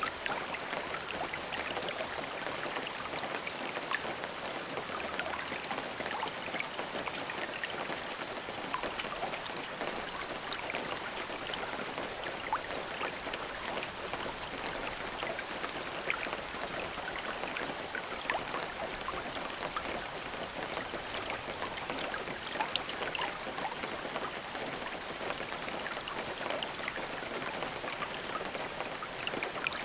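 Steady rain, with many individual drops pattering on a surface. There is no thunder.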